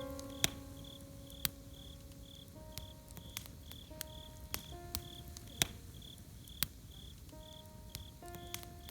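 Campfire crackling, with sharp pops every second or so over a low hiss of the fire, while a cricket chirps steadily about twice a second. Soft held music notes sound underneath.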